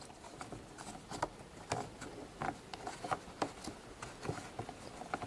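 Faint, irregular small taps, clicks and rubbing as hands work Play-Doh and handle a plastic popsicle mold.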